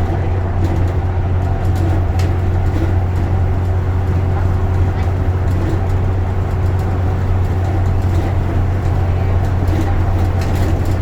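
Bus running along the road, heard from inside the passenger cabin: a steady low drone of engine and road noise with faint scattered clicks and rattles.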